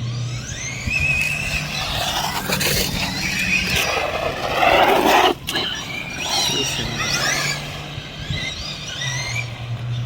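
Electric RC car motors whining, the pitch rising and falling with repeated bursts of throttle. About five seconds in a louder rush of noise builds and cuts off suddenly.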